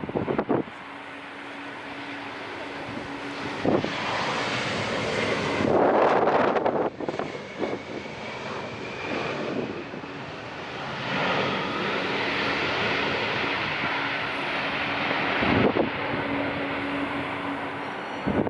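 Airliner engines running as the plane passes the airfield: a continuous rush with a faint whine that glides in pitch. Strong gusts of wind buffet the microphone a few times.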